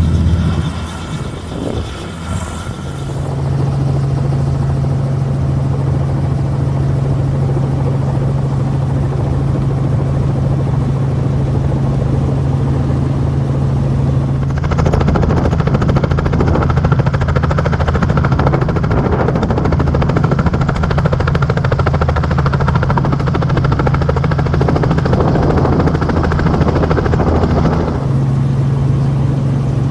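Helicopter engine and rotor running on the ground before take-off, heard from inside the cabin as a steady low hum. About halfway through, a louder, hissier rush joins for some thirteen seconds, then cuts off abruptly.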